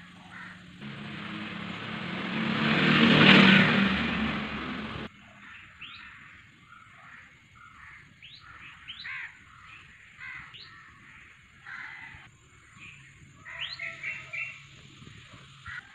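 A loud rushing noise swells up, peaks and cuts off suddenly about five seconds in, after which birds give a string of short, rising chirps, scattered a second or two apart.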